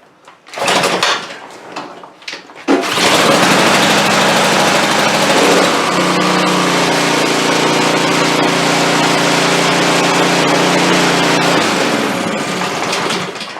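Pressure washer's small gas engine being pull-started: the recoil starter rasps, and about three seconds in the engine catches and runs steadily for around nine seconds, with no water hooked up to the pump. Near the end it is shut off and winds down.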